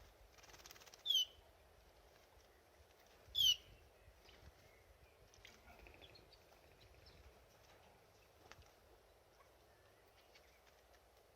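Canary giving two short, falling chirps about two seconds apart, with faint light ticks in between.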